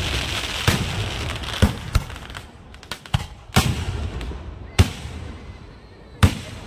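Fireworks going off: dense crackling that dies away over the first couple of seconds, with about six sharp bangs at irregular gaps throughout.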